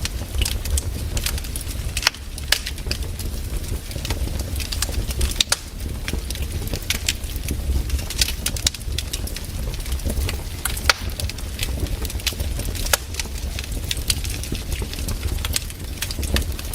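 Wood campfire burning, crackling with irregular sharp pops and snaps over a steady low rumble.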